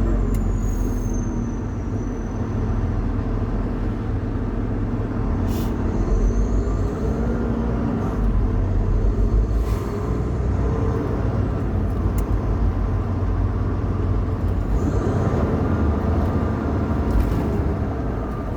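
Semi truck's diesel engine running at low speed, heard inside the cab, with a steady low rumble and a few brief sharp noises.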